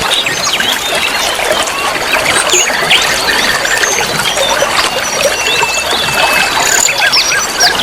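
Many small birds chirping together in a dense, overlapping chorus over a steady sound of trickling, running water.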